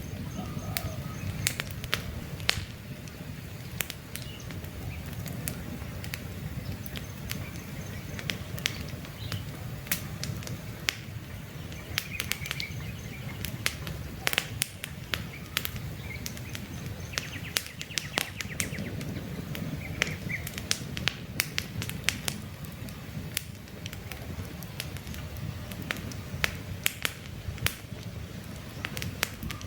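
Campfire burning with irregular sharp crackles and pops over a steady low rumble, and a few faint bird chirps now and then.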